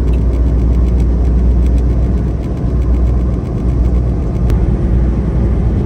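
Semi-truck engine and road noise heard inside the cab while driving, a steady low drone.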